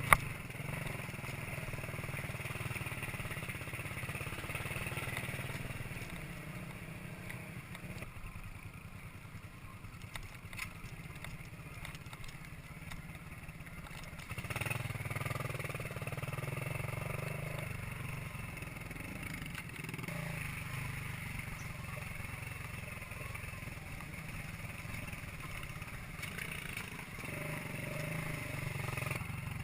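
Minsk 125cc two-stroke single-cylinder motorcycle engine running steadily under way. It fades for several seconds mid-way and comes back louder about halfway through. A single sharp click comes right at the start.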